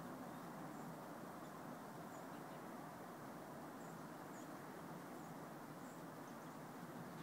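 Faint steady background hiss with a few faint, short, high chirps from birds scattered through the middle.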